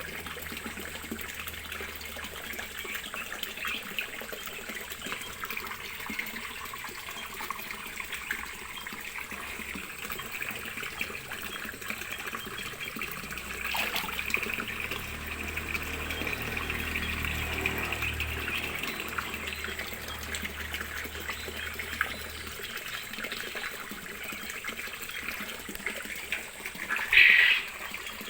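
Water running and trickling steadily, with one brief louder sound near the end.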